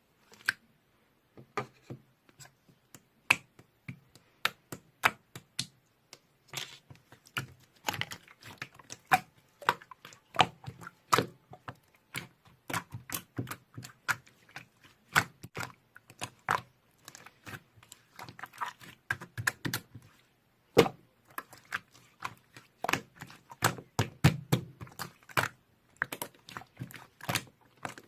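Rapid, irregular clicking and tapping, several sharp taps a second with short pauses, over a faint low hum.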